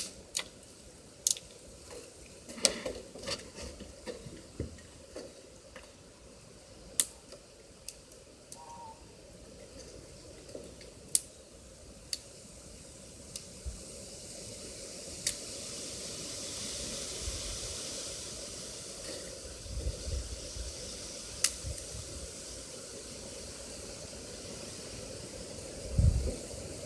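Breakfast frying in a pan: scattered sharp pops and clicks, then a sizzle that builds from about halfway and holds. A couple of dull knocks come near the end.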